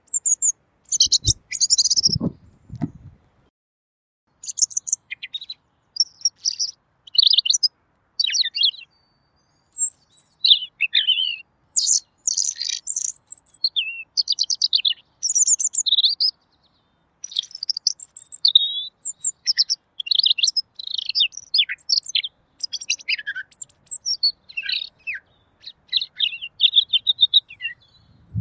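Pekin robin (red-billed leiothrix) singing a long, clear, rapid run of varied chirps and twittering phrases, with short pauses between bursts. A few low thumps sound about one to three seconds in.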